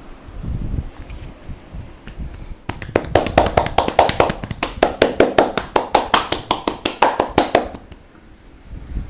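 Rapid percussive massage strikes with the hands on the upper back and shoulders: a fast run of slaps, about five or six a second, starting about three seconds in and lasting about five seconds.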